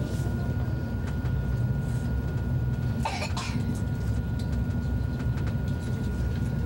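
Steady low rumble of an ICE high-speed train running, heard inside the passenger car, with a faint steady high tone above it. A person coughs once, briefly, about three seconds in.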